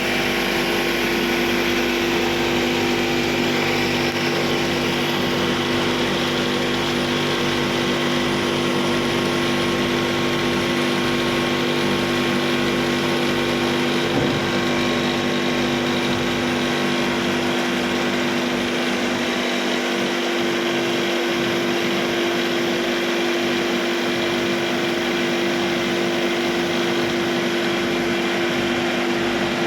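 Gas-fired kiln and furnace plant running steadily: a constant machine hum with two steady low tones under a broad rushing hiss.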